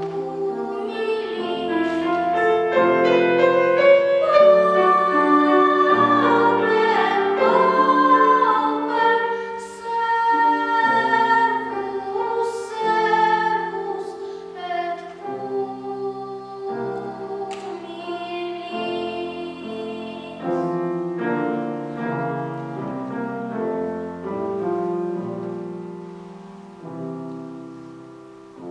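A child singing in classical style with piano accompaniment. The voice holds and glides between notes with vibrato over piano chords, loudest in the first half and dying down toward the end.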